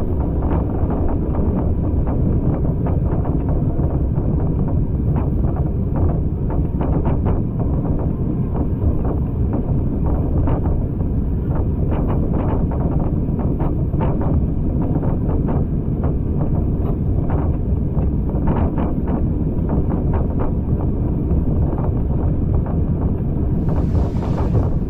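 Train carriage in motion: a steady rumble of wheels on rails with frequent short clicks and rattles, and wind buffeting the microphone.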